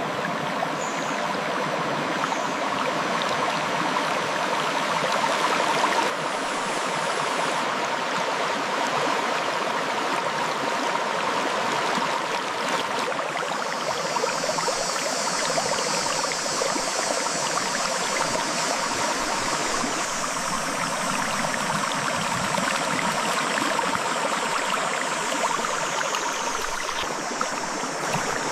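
River water flowing and splashing over rocks in a steady rush. A higher hiss sits over it from about halfway until near the end.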